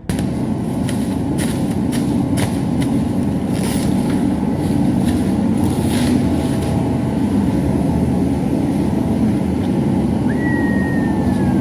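Steady vehicle running noise, a dense low rumble with a few light clicks in the first seconds and a short falling whistle near the end.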